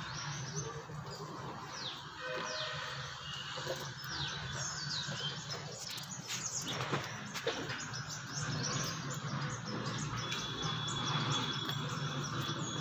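Small birds chirping: many short, quick downward-sweeping chirps scattered throughout, over a steady low hum.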